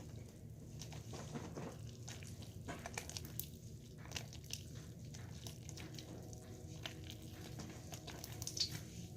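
Faint, irregular small clicks and crackles over a low steady hum, with a slightly louder cluster near the end.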